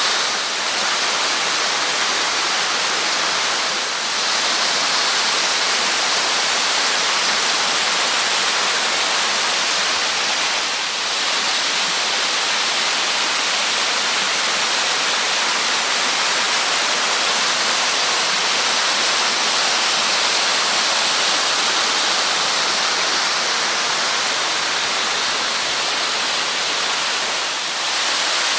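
Steady, loud rush of water flowing and tumbling down a mountain stream, an even hiss with no let-up.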